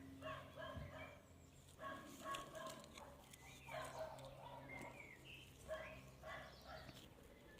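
A small dog barking faintly in several short runs of yaps. This is its signature bark when anyone goes near its territory.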